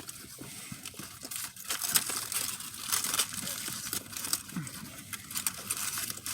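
Fast-food paper and plastic packaging crinkling and rustling, with small clicks and crackles as the food is handled.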